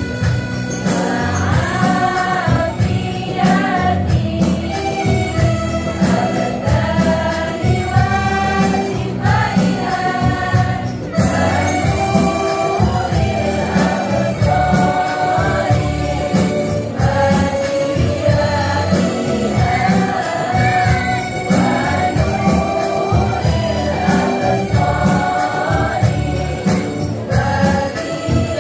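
Women's choir singing an Islamic devotional song in Indonesian/Arabic style, voices together over a steady rhythmic instrumental backing.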